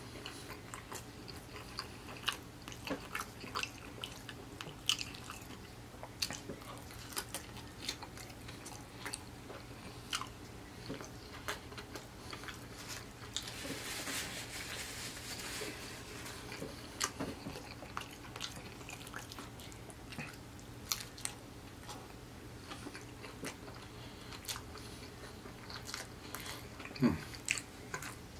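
Close-miked eating sounds: a person chewing with wet smacks, crunches and clicks of the mouth. A few seconds of rustling noise come about halfway through.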